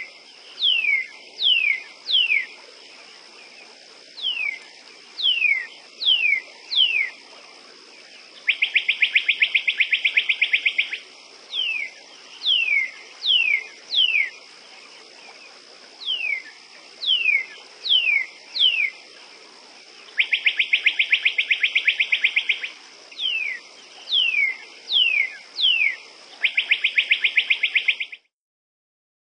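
Bird calls: repeated short whistles sliding downward, often in pairs, alternating with three rapid buzzy trills each about two seconds long, over a steady high tone. The sound cuts off abruptly near the end.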